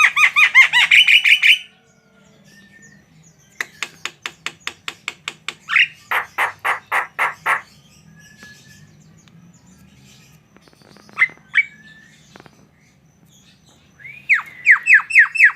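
A jalak (starling or myna) calling in several bouts of rapid repeated notes with short pauses between. There is a dense run of sharp falling notes at the start and again near the end, and a fast ticking series and loud repeated notes in the middle.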